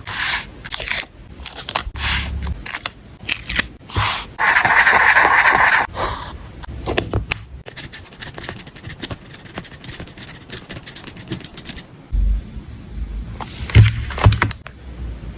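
Paper and stickers being handled on a journal page: irregular scraping and rustling with light taps and clicks. About four and a half seconds in comes a longer scrape of a second or so; the sounds grow sparser and quieter after that.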